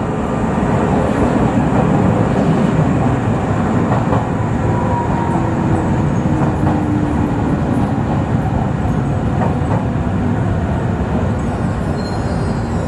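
Izuhakone Railway 5000 series electric train running on the rails, a steady rumble of wheels and track, with a faint whine falling in pitch in the middle as the train slows for the next station.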